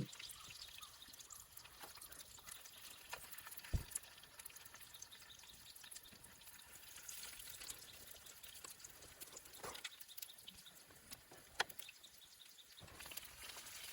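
Quiet background with scattered faint clicks and taps, including a louder tap about four seconds in and another near twelve seconds.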